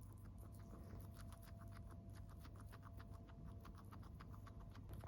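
Guinea pig chewing a snack: faint, rapid, even crunching clicks, about five or six a second.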